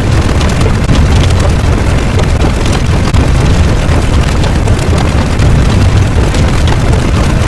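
A loud, continuous low rumbling roar with a noisy hiss above it, steady without clear breaks.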